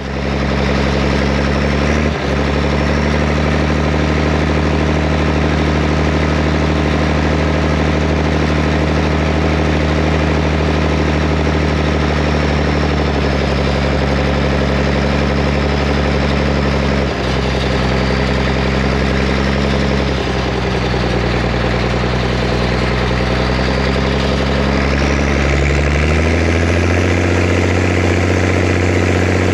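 Zetor Crystal 16145 tractor's six-cylinder diesel engine idling steadily, then rising in pitch to higher revs about four seconds before the end and holding there.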